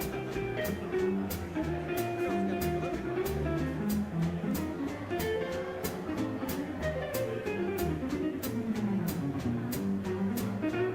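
Jazz rhythm section swinging through an instrumental chorus: a guitar solo over walking upright bass, with drums keeping time on a cymbal.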